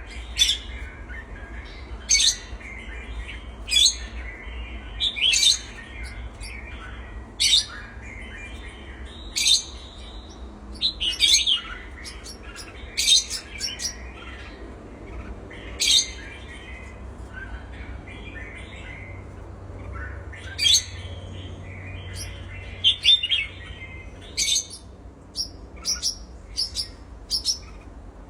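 Pet cage birds giving short, shrill chirps and squawks, one every second or two, coming more rapidly near the end.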